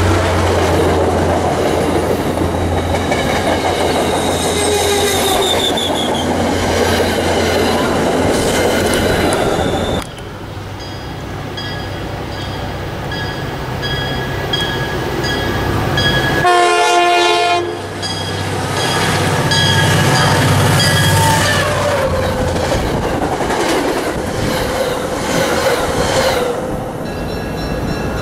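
MBTA commuter train, a diesel locomotive hauling coaches, passing close with a heavy rumble and wheels clicking over rail joints. After an abrupt cut, a distant train approaches with a bell ringing about once a second. A short horn blast follows about halfway through, and then the rumble of a train drawing near.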